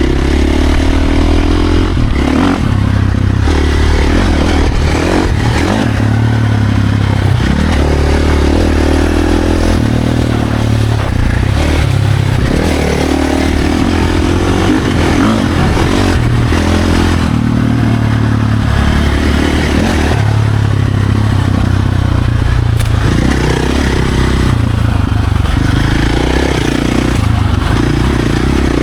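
Off-road dirt bike engine revving up and backing off again and again as it is ridden over trail terrain, with rattling from the bike.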